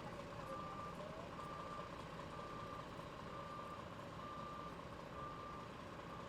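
A vehicle's reversing alarm beeping, one steady tone about once a second, over a steady low rumble.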